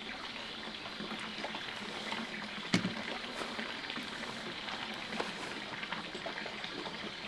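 Steady trickling water in the background, with a single sharp click a little under three seconds in.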